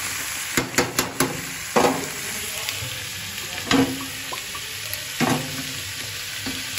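Sliced onions and whole dried red chillies sizzling steadily in hot oil in a kadai, with sharp metal clanks: a quick run of four in the first second and a half, then single knocks near two, four and five seconds.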